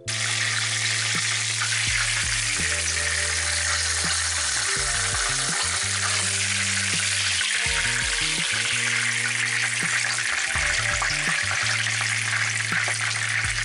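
Breaded chicken cutlets frying in a pan of hot oil: a loud, steady sizzle that cuts in and out sharply.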